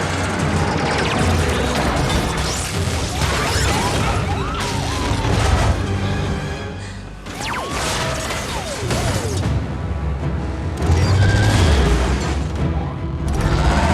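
Action-film soundtrack: loud music mixed with booms and crashes, with short sliding squeals between them. It dips briefly about halfway through.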